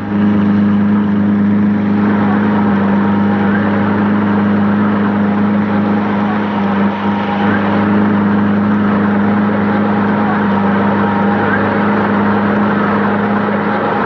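An engine running at a steady speed, a constant low hum that does not change in pitch.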